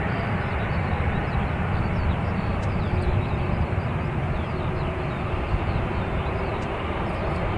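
Steady, unbroken rumble of jet airliner engines, with wind buffeting the microphone.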